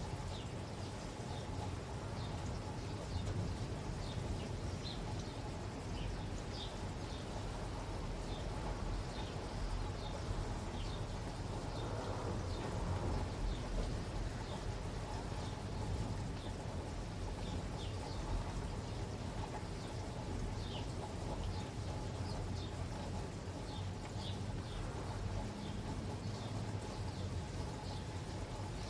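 Small birds chirping, short high calls every second or so, over a steady low background noise.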